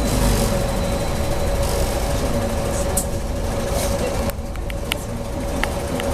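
Inside a BKM 43300D trolleybus: a steady electrical hum over rumbling running noise, which quietens about four seconds in, with a few faint clicks.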